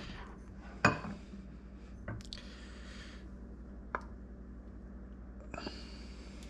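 Kitchen utensils and dishes being handled while a bowl of soup is served: a sharp clink about a second in, then a couple of softer knocks and some soft scraping, over a steady low hum.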